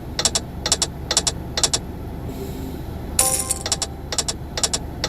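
Dynamite Dash: All Aboard slot game sound effects: reels stopping one after another, each with a short click, about two a second. About three seconds in, a brighter chiming sound starts the next spin, and more reel-stop clicks follow.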